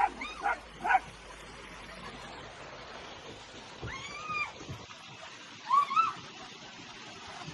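Cat meowing: a few short calls near the start, a longer one about four seconds in, and a couple more around six seconds.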